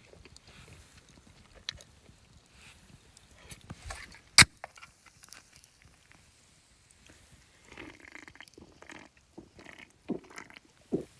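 Close-up eating sounds: biting and chewing in short bursts, with scattered clicks and one sharp, loud click about four seconds in.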